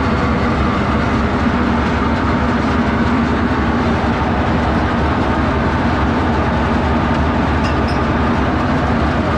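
Sawmill's Detroit diesel power unit running steadily at a constant speed.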